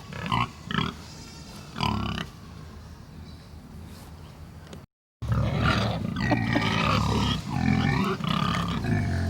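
Pigs grunting: a few short grunts at first, then, after a brief break in the sound about five seconds in, several pigs grunting continuously with higher gliding squeals mixed in.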